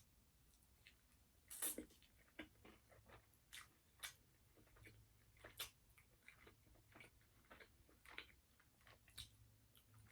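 Faint, close-miked chewing of a bite of KFC fried chicken dipped in gravy: irregular soft crunches and wet mouth clicks, the loudest about one and a half seconds in.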